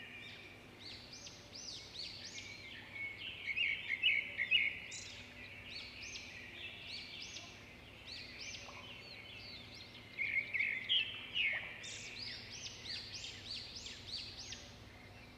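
Small birds chirping: many short, repeated rising-and-falling calls, with louder flurries about four seconds and eleven seconds in.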